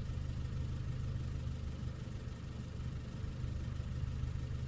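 Renault Clio II engine idling steadily, a low even hum.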